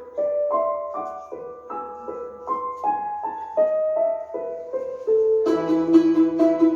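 Piano playing a simple melody in single notes. About five and a half seconds in, a fuller texture joins with rapidly repeated plucked-string strokes.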